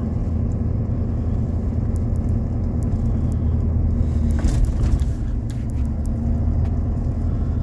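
Engine and road noise of a vehicle driving along at steady speed, heard from inside the cabin as a continuous low hum. A brief louder rush of noise comes about four and a half seconds in.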